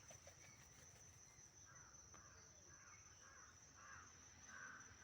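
Faint, distant cawing of crows: about half a dozen short caws from roughly a second and a half in, over a steady high thin tone.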